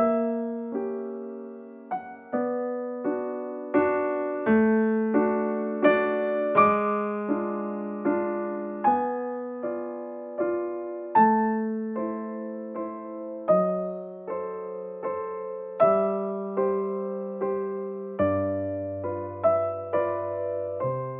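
Slow, gentle solo piano background music: single melody notes struck one or two a second and left to ring over held chords, with deeper bass notes coming in near the end.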